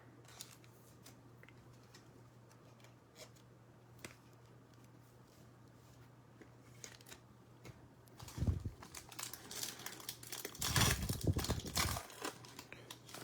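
Trading-card pack wrapper being torn open and crinkled by hand. Faint ticks and rustles at first, then louder tearing and crinkling from about eight seconds in, loudest about three seconds before the end.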